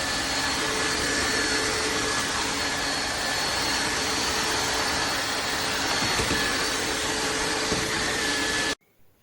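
Tineco iFloor 5 Steam wet-dry floor cleaner running: a steady motor and suction noise with a few steady whining tones, cutting off abruptly near the end.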